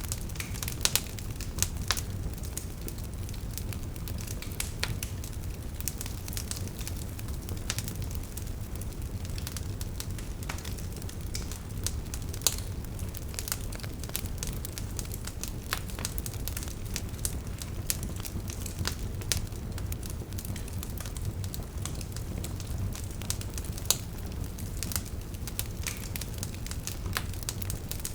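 Wood fire burning with a steady low rumble and irregular crackling of the logs, with occasional louder pops.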